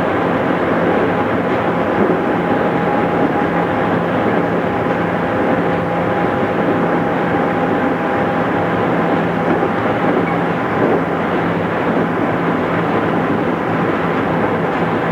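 Cabin running noise of a JR East 211 series electric train travelling at speed: a steady rumble of wheels and running gear with a faint, even whine through much of it. The sound is dull and lacks treble, as heard through an old cassette-tape recording.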